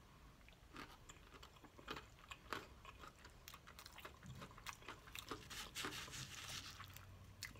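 Close-up chewing of crispy fried chicken: many small crunching crackles from the breading, thickest a little past halfway through.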